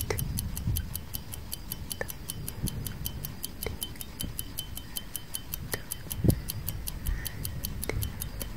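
Tick-tock clock sound effect: fast, evenly spaced ticking, several ticks a second, over a low steady rumble, with a sharper click every couple of seconds.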